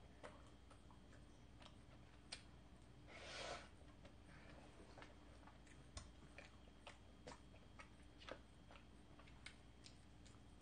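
Near silence with faint close-up eating sounds: quiet chewing and small scattered mouth clicks while eating an ice cream cone, and a brief soft hiss about three seconds in.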